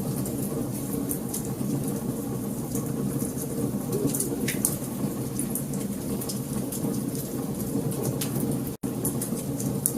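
Wood fire burning in a fireplace: a steady low rumble of flames with frequent sharp crackles and pops from the burning wood. The sound cuts out for an instant near the end.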